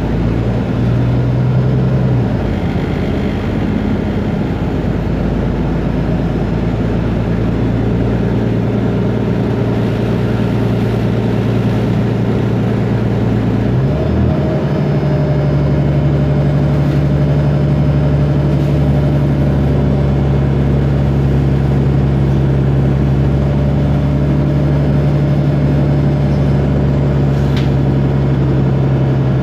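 Otokar Kent LF city bus's Ford Ecotorq diesel engine with its Voith DIWA automatic gearbox, running steadily. About halfway through the engine note rises quickly and holds at a higher steady pitch.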